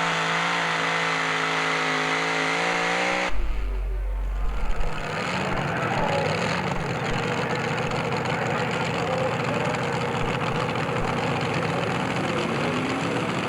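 Pulling tractor engine held at high, steady revs. About three seconds in the note breaks off abruptly with a thump and a low rumble, and rougher, uneven engine running follows, rising in pitch near the end.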